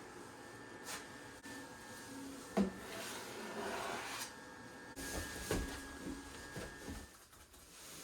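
Workshop handling sounds: a few light knocks, and a brief rubbing scrape about three seconds in. A faint steady high tone runs underneath.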